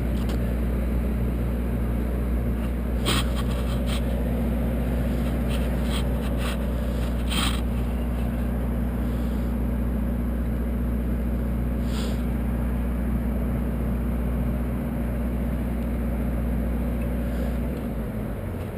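An engine idling steadily with a low, even hum that drops away shortly before the end, with a few faint brief scrapes or knocks over it.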